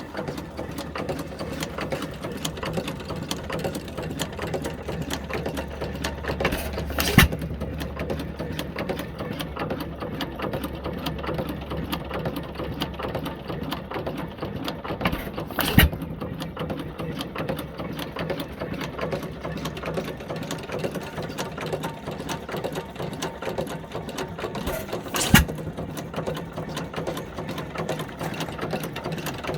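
1908 International Harvester Famous 4 hp single-cylinder stationary engine running with a fast, steady mechanical clatter. Three sharp bangs come at even gaps of about eight to nine seconds.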